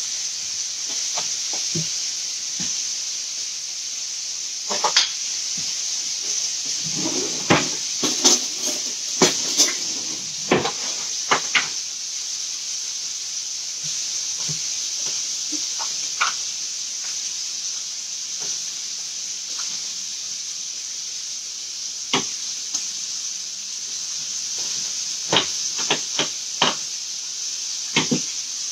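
Chicken frying in a pan, sizzling steadily, with scattered clicks and knocks of utensils and cookware.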